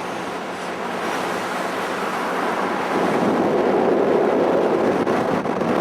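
Wind rushing over the microphone on a moving motorcycle, with the engine running underneath. The rush grows louder about three seconds in.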